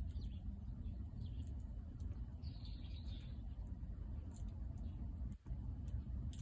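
Wood fire burning, with scattered sharp crackles and a few faint high chirps over a steady low rumble.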